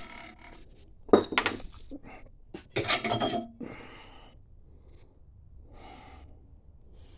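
Metal clinking and scraping on a homemade tire-changing rig of steel conduit, with the lawn tractor's wheel rim clamped in it. Two clusters of clanks with a short metallic ring come about a second in and about three seconds in, and a fainter rattle follows near six seconds.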